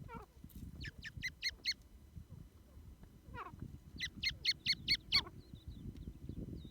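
Teetar (francolin) calling: two runs of five or six quick, ringing notes, about a second in and again around four seconds in. Each run is led in by a falling, slurred note. A low scuffling noise runs underneath.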